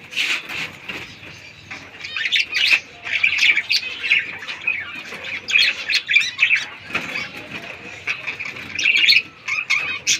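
Captive Australian finches chattering, many short high calls overlapping without a break.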